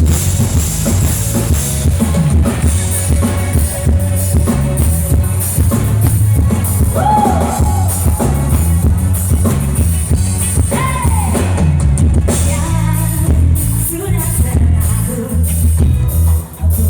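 Live dangdut band playing with a steady drum-kit beat and heavy bass.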